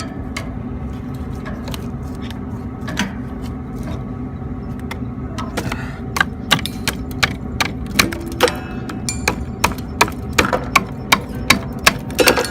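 Ice being chipped and pried off the frozen-up lines of a walk-in freezer condensing unit, with scattered clicks at first and then repeated sharp knocks, about two or three a second, from about six seconds in, over a steady machinery hum.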